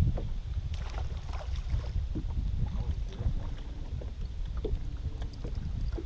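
Wind rumbling on the microphone, with scattered light clicks and knocks. A few short, flat-pitched tones come in from about halfway through.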